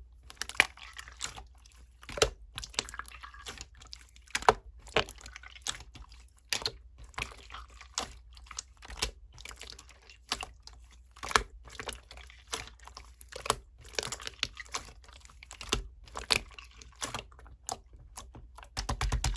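Clear slime being squeezed and pressed by hand, making quick irregular sticky clicks and pops, several a second.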